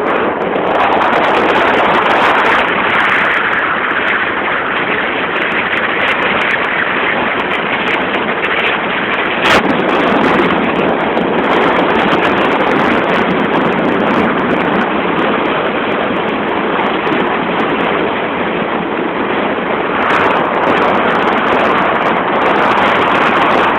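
Steady rush of wind and road noise in a moving car, with one brief sharp click about nine and a half seconds in.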